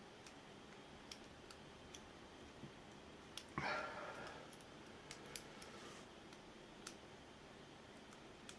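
Lock picks working in an ABUS 83AL/45 padlock: faint, scattered small metal clicks, with one louder scrape that rings briefly about three and a half seconds in.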